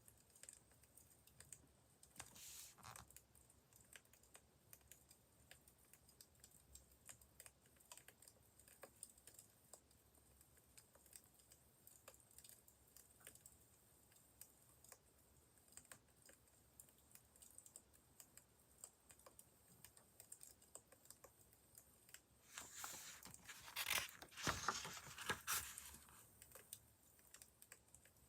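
Faint, irregular crackling of a wood fire, with scattered small clicks. Near the end comes a louder papery rustle, like a book page being turned, and a shorter one a few seconds in.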